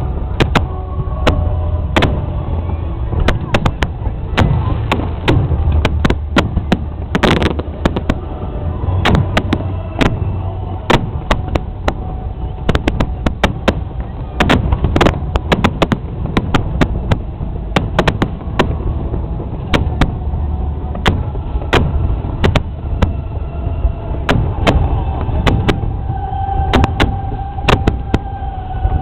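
Aerial fireworks going off in a dense, continuous run: many sharp bangs and crackles over a steady low rumble of booms.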